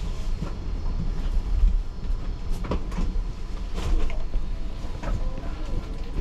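Inside a JR 285-series Sunrise Seto sleeper carriage as the train creeps slowly along the platform to a stop: a steady low rumble with irregular clunks and clicks from the car body and running gear.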